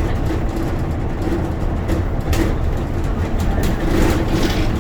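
Bus running on the road, heard from inside the cabin: a steady low engine and road rumble, with a few short rattles from the body and fittings, about two seconds in and again near the end.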